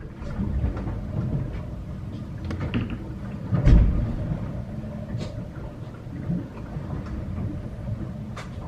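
Sailboat underway: a steady low rumble of motion and water, with scattered knocks and clicks and one heavy thump a little under four seconds in.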